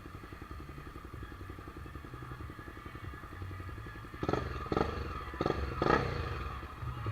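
Single-cylinder Honda CBX 250 Twister motorcycle engine idling with an even, pulsing beat. From about four seconds in come several short, louder bursts.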